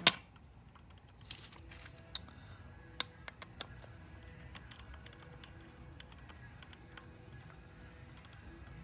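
Small clicks, taps and brief rustles of hands working a wire and small metal parts on a light fixture while fastening the ground wire around the ground screw. A sharp click comes at the very start, rustling follows about a second in, and the clicks thin out after that.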